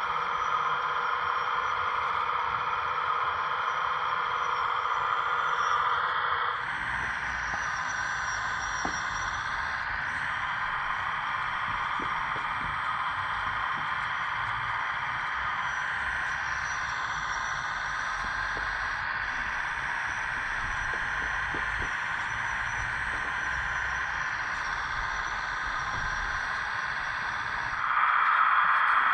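Radio-controlled scale construction machinery whining steadily from its electric hydraulic pump and motors, with a few light clicks. The sound drops about six and a half seconds in and comes back louder near the end, as the load on the pump changes.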